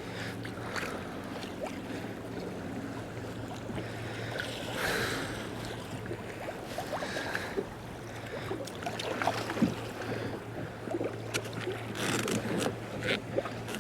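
Sea water splashing and slapping irregularly against a kayak hull in choppy conditions, over a steady low hum.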